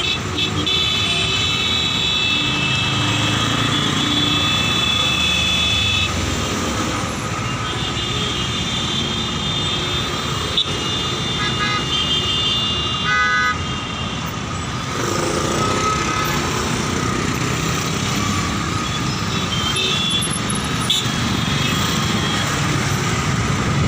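Road traffic noise with vehicle horns sounding at intervals.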